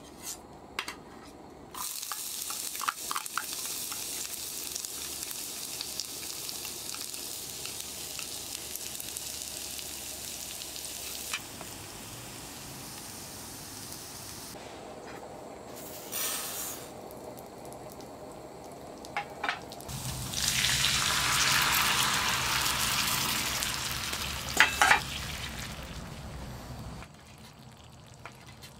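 Diced onions frying in oil in a pan, a steady sizzle that grows louder about two-thirds of the way in as they are stirred with a spatula, with a few sharp knocks against the pan.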